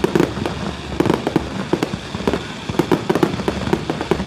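Fireworks going off in quick, irregular succession: a dense run of sharp bangs, several a second.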